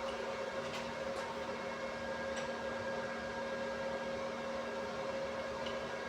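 Steady electrical machine hum with a few faint clicks.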